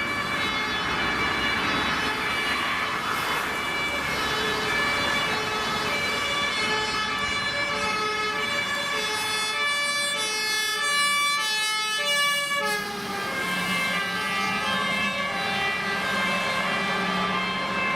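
Two-tone sirens of fire vehicles on an emergency run, alternating high and low notes about twice a second, with more than one siren overlapping for a while. The pitch drops a little about two-thirds of the way in, and a low engine rumble joins near the end.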